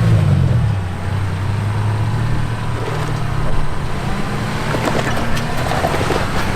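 Off-road vehicle's engine revving, its pitch falling at the start and then holding a steady drone under load as the vehicle works to crawl out of a stuck spot on a rock obstacle.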